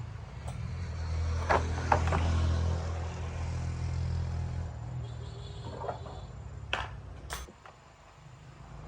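Small motorbike engine running with a steady hum that fades briefly near the end and picks up again, with a few sharp metallic knocks, twice about a second and a half in and twice near the end.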